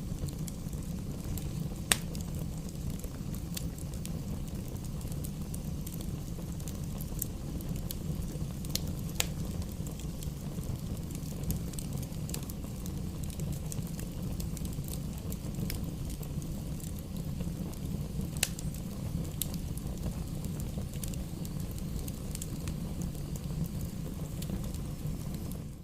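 Campfire burning: a steady low rumble of flames with sharp pops and crackles from the wood every few seconds, the loudest pop about two seconds in.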